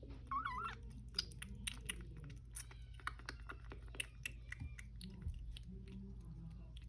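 Three-week-old kitten making rapid wet clicking and smacking mouth sounds, with a brief wavering mew about half a second in.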